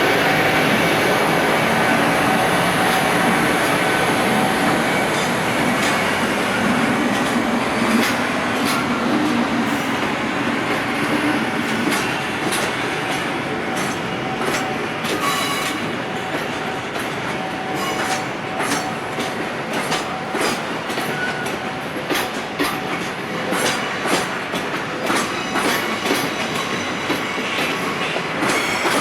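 A long freight train of container wagons rolls past, its wheels clacking over the rail joints; the clacks come more often in the second half. A steady whine runs through the first half and fades.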